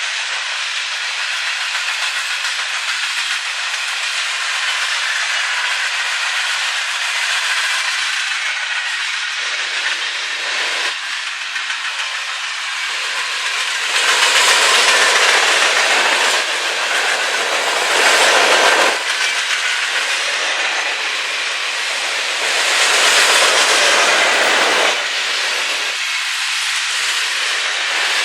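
A train rolling past close by: a steady hiss of wheels on rail with some clickety-clack, swelling louder a few times as cars go by.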